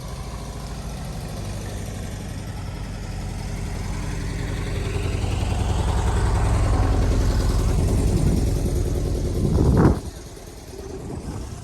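A car engine running, growing steadily louder for several seconds and peaking just before it cuts off sharply near the end.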